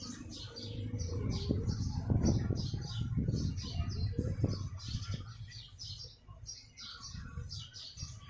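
Small birds chirping over and over, short high chirps several times a second, over a low background rumble.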